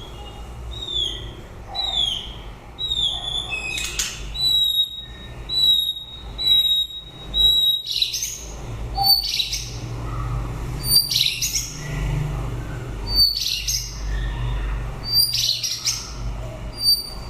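White-rumped shama singing. It opens with short downward-sliding whistles, then a string of clear level whistled notes repeated quickly, then louder, harsher rasping notes mixed with thin high notes. A low steady hum runs underneath.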